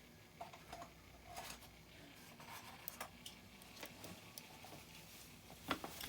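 Faint scattered clicks and taps of small diecast toy vehicles being handled and set down, with a couple of sharper clicks near the end.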